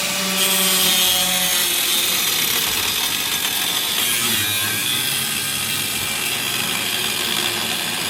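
Power grinder grinding on metal: a steady, harsh grind that sets in about half a second in.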